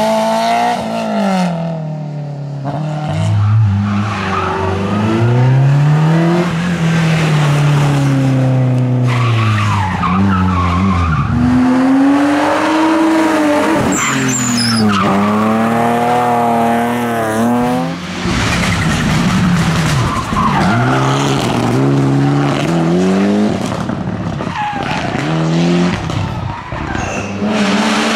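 Rally car engines revving hard through the gears on a tarmac stage, the pitch climbing and falling repeatedly with gear changes and braking for bends, with tyres squealing.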